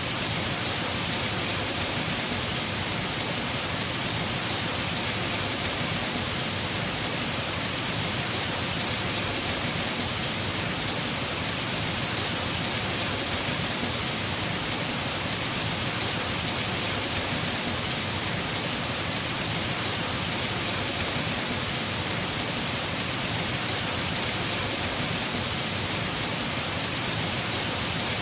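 Heavy rain falling steadily on a house roof, an even dense hiss with no breaks.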